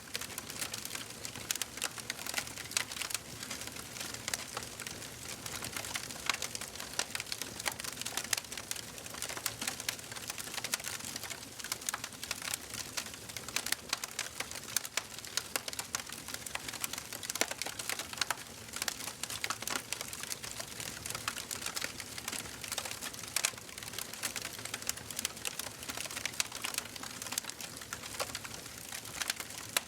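Wood fire crackling and popping in a fireplace: a steady run of irregular small snaps over a soft hiss.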